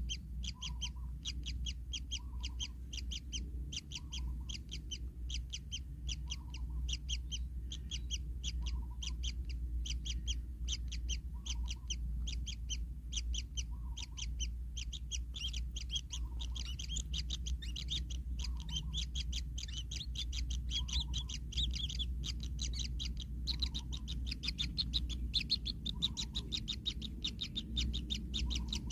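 Kingfisher chicks calling in a fast, steady series of short high chirps, about four a second, typical of nestlings begging for food.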